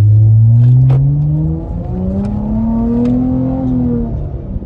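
Dodge Charger with a straight-piped exhaust accelerating hard. The engine note climbs, drops at a gear change about a second and a half in, climbs again, then eases off near the end.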